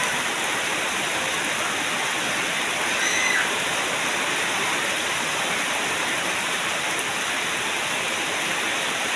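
Heavy tropical rain falling steadily onto flooded ground and puddles, an even hiss of downpour, with a faint short high-pitched call about three seconds in.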